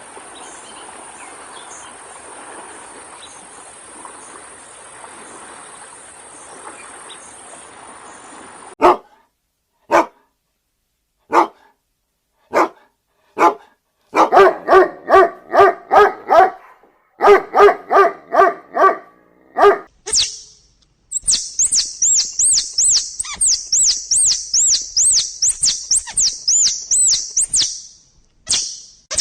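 A dog barking: single sharp barks about a second apart, then two quick runs of rapid barks. About two thirds of the way in, a bird takes over with a fast series of high, repeated chirps.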